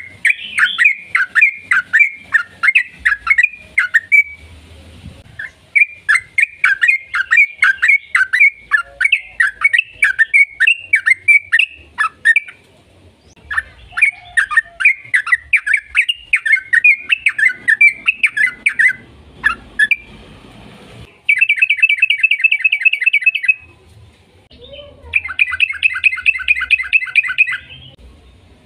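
Yellow-vented bulbul (trucukan) singing: three long runs of rapid, bubbly chattering notes with short pauses between, then two fast, even trills near the end.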